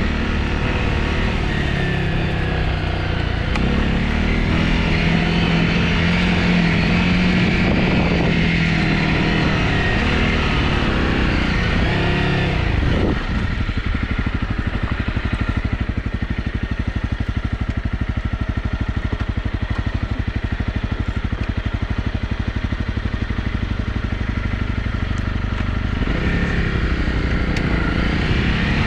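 Honda CRF250's single-cylinder four-stroke engine running steadily under way. About halfway through, it drops to a lower, evenly pulsing note, and the revs pick up again near the end.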